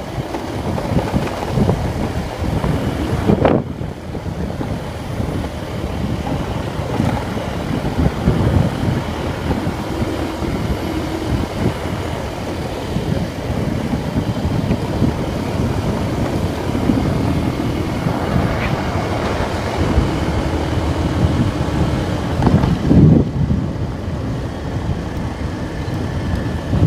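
Riding a Vento Terra motorcycle: wind rushing over the microphone, with gusts about 3.5 s, 8.5 s and 23 s in, and the engine running underneath.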